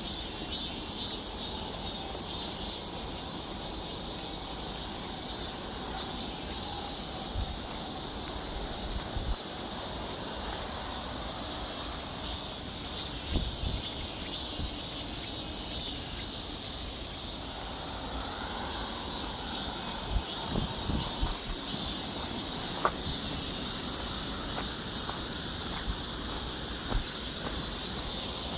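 Insects chirring: a steady high-pitched pulsing trill, with a few soft low thumps.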